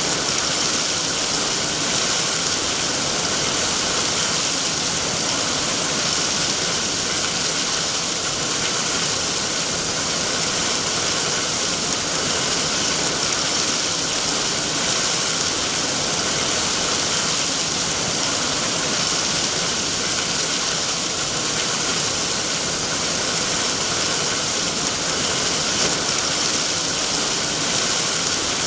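Heavy rain falling steadily: a dense, even hiss that holds unchanged throughout.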